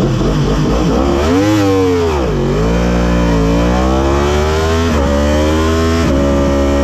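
Superbike engine revving and pulling hard: the pitch climbs, drops sharply about two seconds in, climbs again and drops once more near five seconds, then holds steady. A lower, steady engine note runs underneath.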